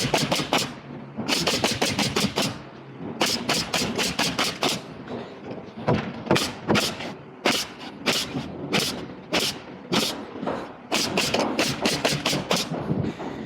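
Rapid sharp strikes in bursts of four to seven, about six a second, with short pauses between the bursts: nails being driven into plywood.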